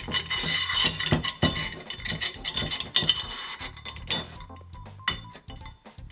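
Metal parts and bolts of a chainsaw mill clinking and knocking together as they are handled and laid out, with a number of sharp clinks and some ringing in the first half and fewer later.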